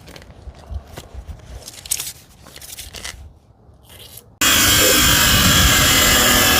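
Light knocks and rubbing from handling tools and metal, then a corded power tool switches on about four seconds in and runs loud and steady.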